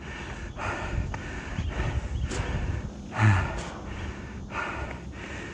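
A man breathing hard in repeated heavy breaths, with one louder, voiced breath about three seconds in: he is out of breath from climbing a steep staircase in strong heat.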